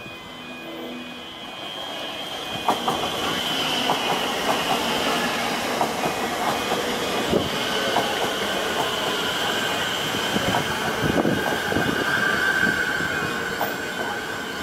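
Electric suburban trains passing close through a station: a high steady whine over the running noise, with the wheels clicking over rail joints. It grows louder about two seconds in as the near train comes past.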